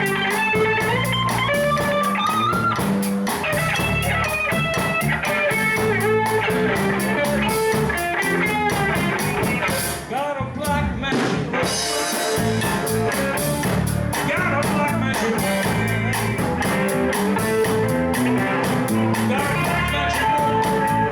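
Live band jamming: a melody line over a steady drum beat with cymbals keeping time. The cymbals drop out briefly about halfway through, then the beat comes back in.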